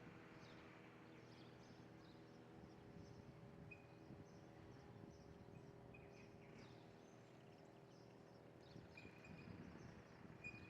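Faint bird chirping: many short, high chirps scattered through, with a few brief clear notes, over a steady low hum.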